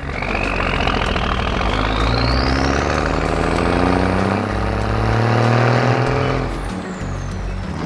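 Vehicle engine sound effect revving up, its pitch climbing steadily with a rising whine for about six seconds, then falling away near the end.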